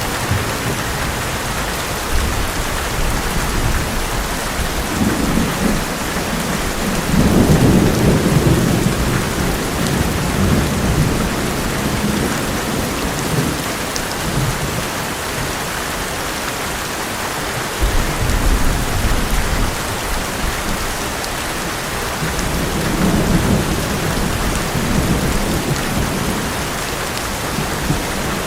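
Heavy rain drumming steadily on an old metal roof, with thunder rolling in low rumbles several times, loudest about seven to nine seconds in.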